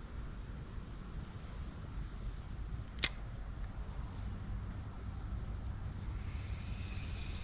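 Steady high-pitched insect chorus, trilling without a break, with a single sharp click about three seconds in.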